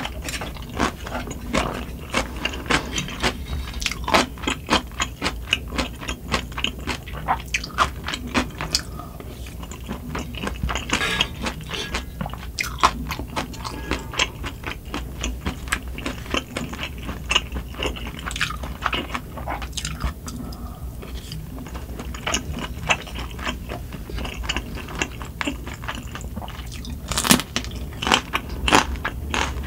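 Close-miked chewing, with many wet smacks and clicks, from eating spicy sundae gukbap (Korean blood sausage and pork soup). A spoon scrapes and clicks against the pan now and then, and near the end comes one sharp crunch from a bite of raw green chili pepper. A steady low hum runs underneath, from wind and rain.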